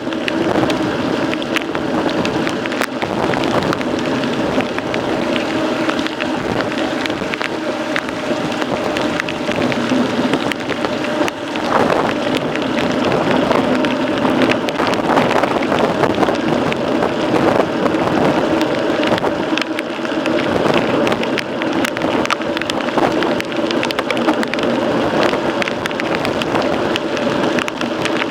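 A mountain bike being ridden during a race: a steady hum with constant rattling and clicking over a noisy hiss.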